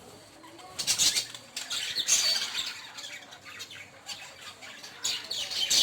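Several caged finches calling, with bursts of wing flutter; the calls are loudest about a second in, around two seconds, and again near the end.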